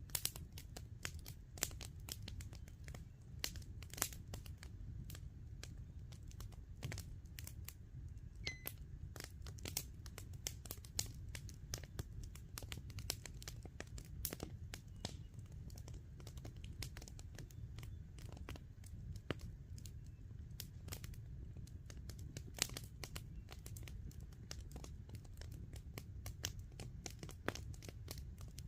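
Campfire crackling, with irregular sharp pops coming several times a second over a low steady rumble.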